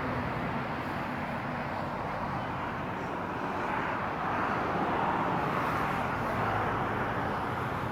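Road traffic noise: a steady rush of passing vehicles, swelling as one goes by about four to seven seconds in, then easing.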